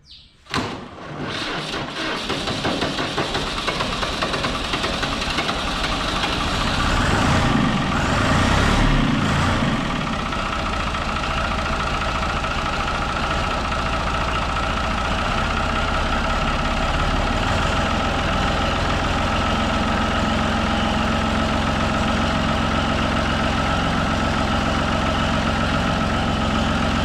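Hard-starting farm tractor engine catching on full fuel about half a second in. It picks up speed and runs faster, loudest around seven to ten seconds. It then drops back as the fuel is let off and settles into steady running.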